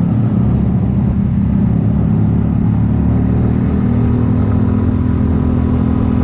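Kymco People 250 scooter's engine running steadily while riding, with road and wind noise; its exhaust leaks are sealed with JB Weld high-heat epoxy, and it sounds nice and quiet.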